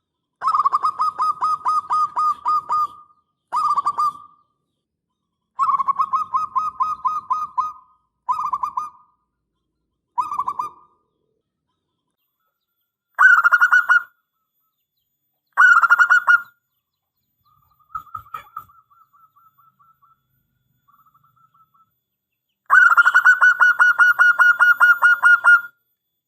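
Zebra dove (perkutut) cooing in a series of rapid, staccato trilled phrases, some lasting two to three seconds, separated by short pauses. A fainter, quieter bout comes about two-thirds through, and a long phrase comes near the end.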